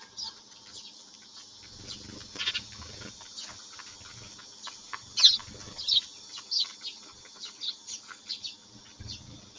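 A flock of Eurasian tree sparrows chirping: many short, quick chirps overlapping, with a few louder ones about five seconds in.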